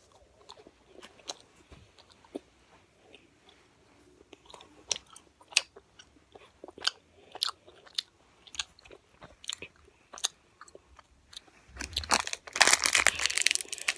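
Close-up chewing of a Fruit Roll-Up: small wet mouth clicks and smacks, scattered irregularly, with a louder noisy stretch near the end.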